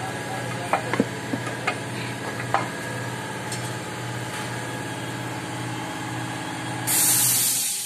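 Steady mechanical hum with a pulsing low drone, like an engine or motor running, with a few light metallic clicks in the first few seconds. About seven seconds in, a loud hiss of air starts and fades off.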